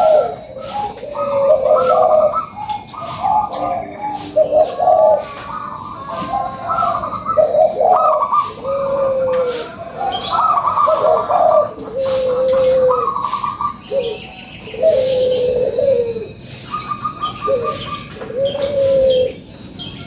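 Zebra dove (perkutut) cooing: phrase after phrase of quick staccato coos, a higher trilled note running into lower drawn-out coos, over and over.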